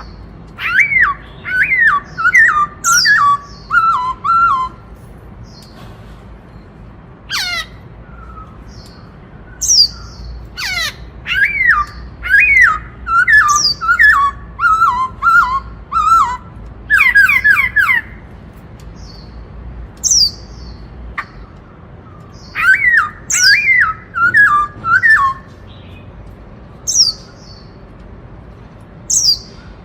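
Black-throated laughingthrush (khướu bạc má) singing loudly in its 'bắt cô trói cột' song, in repeated bursts of quick falling whistled notes. Thin high notes come between the phrases.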